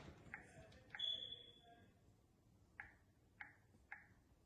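Near silence with a few faint sharp clicks or taps, and a short high beep about a second in.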